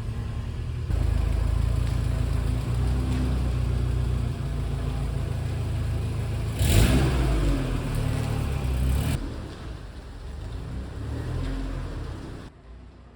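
Subaru EJ flat-four engine running after its hydraulic lifters were refitted, with a brief louder rushing burst about halfway through. The sound drops off near the end.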